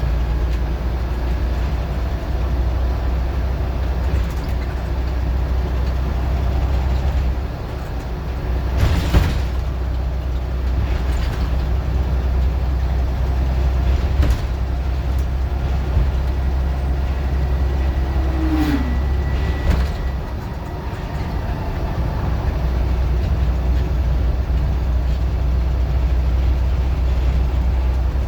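Scania N94UD OmniDecka double-decker bus engine running under way with a steady low drone, easing off briefly twice, with a few sharp knocks and rattles.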